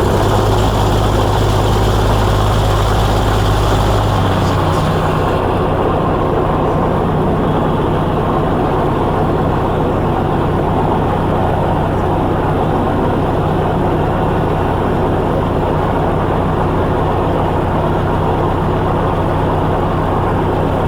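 The Velocity S-FG's 180 hp pusher engine and propeller running steadily, heard inside the cabin. About four seconds in the engine note changes, its deepest hum dropping away.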